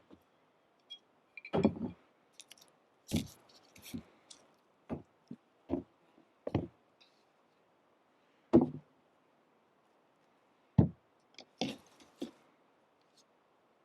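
A dozen or so separate knocks and clunks at irregular intervals, several of them louder thumps, like cooking gear being handled and set down.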